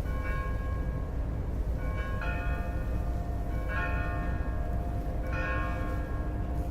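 Bells ringing, with four struck peals roughly one and a half seconds apart, each leaving tones that linger, over a steady low rumble.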